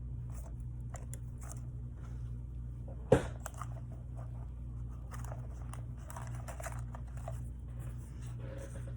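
Hands working paper planner pages, stickers and tape: light rustling and scratching sounds, with one sharp knock about three seconds in, over a steady low hum.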